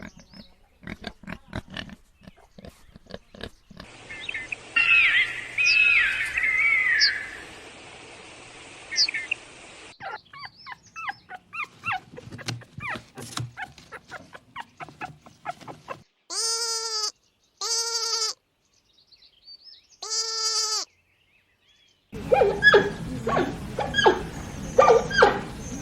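Several different animal calls in turn: rapid clicking, a stretch of high pitched calls over a steady hiss, then three loud, pitched calls about a second each past the middle, and a busy run of calls near the end.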